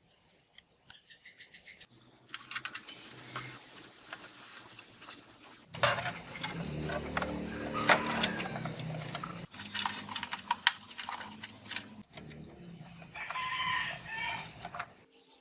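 Sound playing through the speaker of a Sony CFS-W350S radio cassette recorder, cutting abruptly from one sound to another several times.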